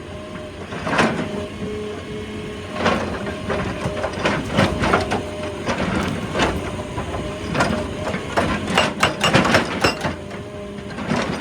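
Excavator engine running steadily while rock cracks and knocks irregularly as it is broken and moved, sharp hits coming thickest toward the end.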